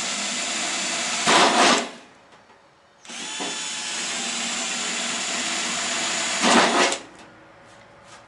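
Electric hand drill boring holes through a steel mounting plate: two runs of steady drilling about a second apart, each ending with a short, louder grinding burst before the drill stops.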